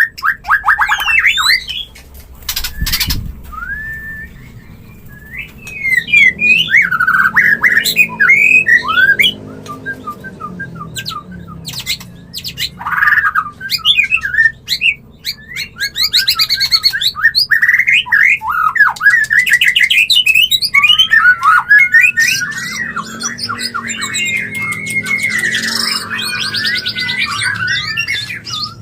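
White-rumped shama singing its breeding-season song: a long run of varied whistles, quick trills and harsh rattling notes, the call of a bird in breeding condition. A sharp click sounds about three seconds in.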